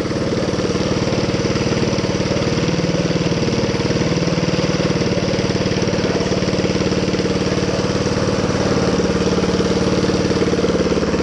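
Minibike's Honda GX200 single-cylinder four-stroke engine running steadily at a constant speed, getting slightly louder near the end.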